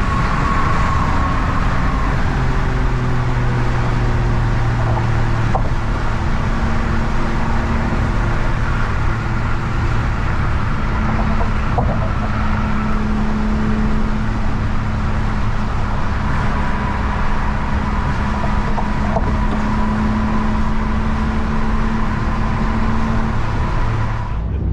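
Car engines running at close range: a loud, steady rumble with a few long, even tones held over it.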